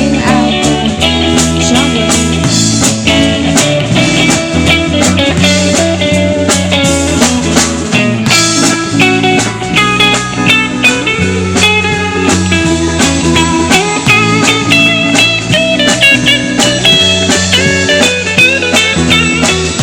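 Live band playing an instrumental passage: guitar over bass and a drum kit, with a lead line that bends in pitch from about halfway through.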